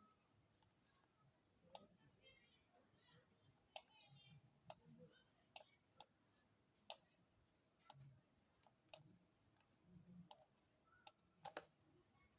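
Faint computer clicks, sharp and spaced irregularly about a second apart, as text is copied and pasted, with a quick double click near the end.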